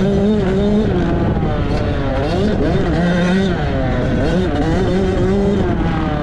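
Dirt bike engine revving up and dropping back several times as it is ridden, with a heavy rumble of wind and engine noise underneath.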